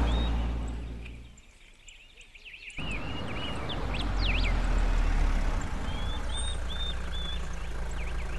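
Car engine running, fading away in the first second or so, then cutting back in near three seconds in and running steadily. Birds chirp throughout.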